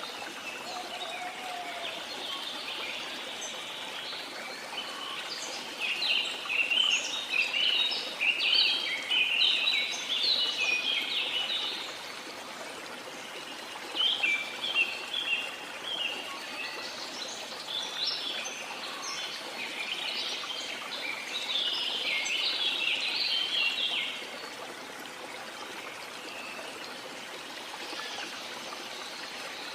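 Small birds chirping and twittering in two busy bouts of several seconds each, over a steady wash of sea water.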